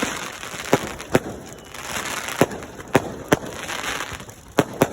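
Fireworks going off: about seven sharp bangs at irregular intervals, two of them close together near the end, over a steady hiss of background noise.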